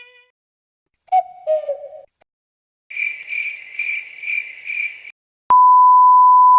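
A run of stock comedy sound effects: first a short two-note falling hoot, then crickets chirping in about five even pulses, the classic awkward-silence gag. Near the end comes a loud, steady censor bleep lasting about a second.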